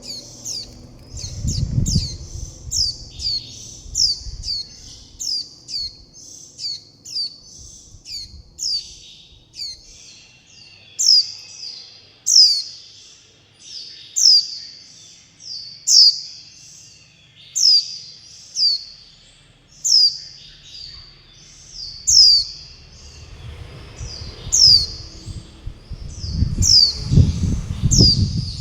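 Young white-eye calling over and over, begging for food and calling to its parent: short, high, thin notes that each slide downward, about two a second at first, then spaced out to one every second and a half or so.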